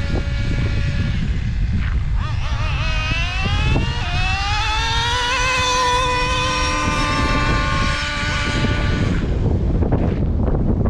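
Traxxas 3.3 nitro engine of an RC truck running under throttle, a high-pitched engine whine that climbs in pitch about two seconds in, holds high, then falls away about nine seconds in, over a low rushing noise.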